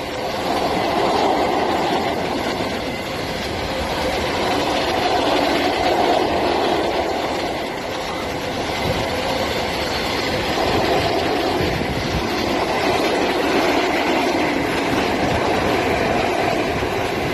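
Freight train of high-sided open wagons passing close at speed: a steady, loud noise of wagon wheels running on the rails.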